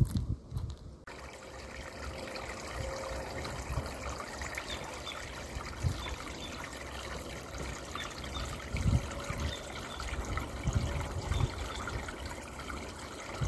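Water trickling and flowing steadily, with faint bird chirps over it and a few low thumps; it starts suddenly about a second in.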